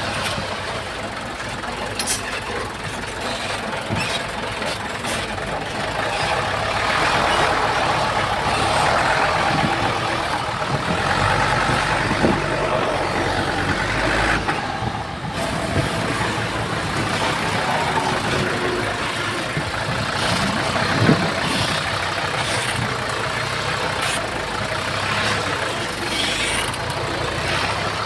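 Heavy diesel earthmoving machinery running steadily, growing louder for a few seconds near the middle, with a few sharp knocks.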